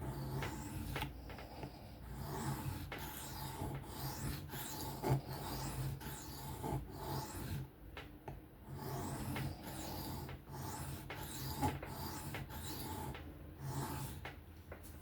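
Steel knife blade rasping in repeated freehand strokes across a diamond sharpening plate, with a couple of brief pauses, as the bevel is cleaned up.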